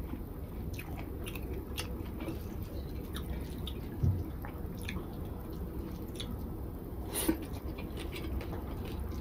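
A person chewing a mouthful of rice and dried-fish mash, with small wet mouth clicks, while fingers mix rice on a plate. A soft low thump comes about four seconds in and a sharp click a little after seven seconds.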